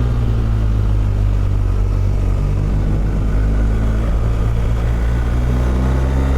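Motorcycle engine running at a steady cruising speed, with wind and road noise.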